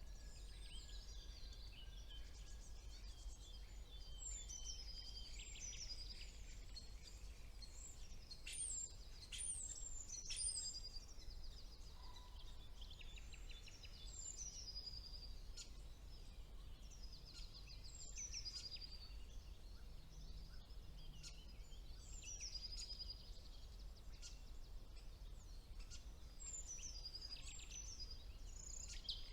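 Songbirds singing: short high phrases that sweep downward, repeated every few seconds, mixed with rapid buzzy trills, over a faint steady low hum.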